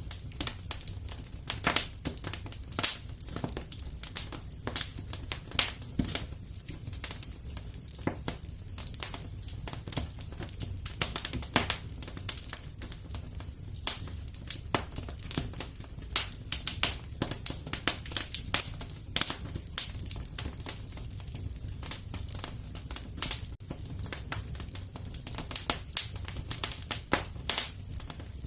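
Wood fire in a fireplace crackling, with frequent irregular sharp pops and snaps over a low steady rumble of the burning.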